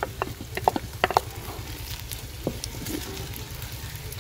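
Chopped tomatoes and green chillies frying in oil in a clay handi, with a wooden spoon stirring and scraping against the pot. A run of sharp clicks and knocks in the first second or so, over a steady low hum.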